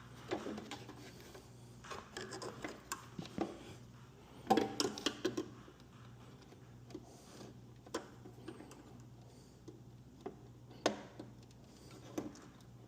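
Handling noises: scattered clicks, taps and rubbing of tools and parts, with a short cluster of knocks about four and a half seconds in, over a steady low hum.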